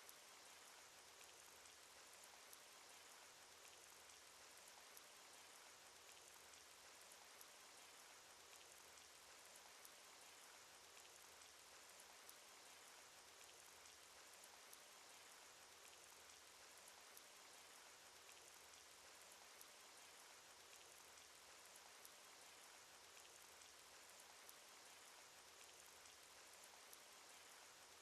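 Faint, steady cartoon rain sound effect: an even patter of raindrops with small individual drop ticks. A slightly brighter drop repeats about every two and a half seconds, as from a short looped sample.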